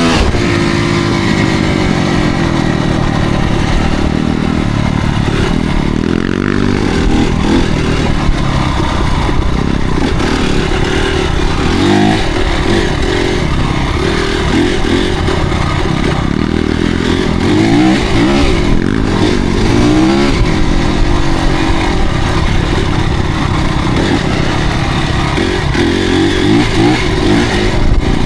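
Motocross bike engine running loud and revving up and down over and over as the bike is ridden.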